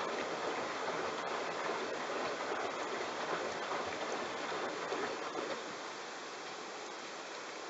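Bosch front-loading washing machine in its wash phase, water sloshing as the drum tumbles a load of towels. The sound drops to a quieter, steadier hiss about three-quarters of the way through.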